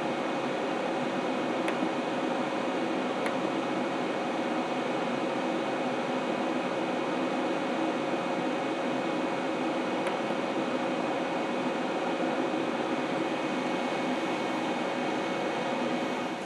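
Steady crackling hiss of a welding arc with a steady hum, from the YesWelder MP200 welding steel railroad spikes together. It stops suddenly just before the end, leaving a quieter hum.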